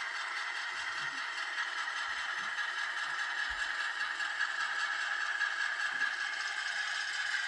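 HO-scale model train running along the layout's track, a steady rattling clatter of wheels on rail with a few faint knocks.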